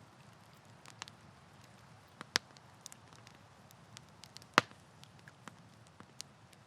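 Campfire crackling: a faint steady hiss of burning wood with scattered sharp pops and snaps, two louder pops about two and a half and four and a half seconds in.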